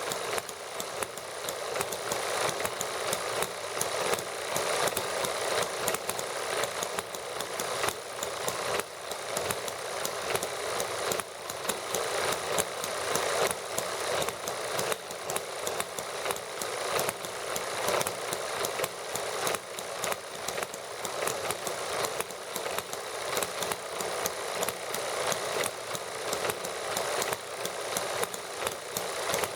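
Small model gasoline engines running steadily on white gas, a fast, even train of sharp firing clicks.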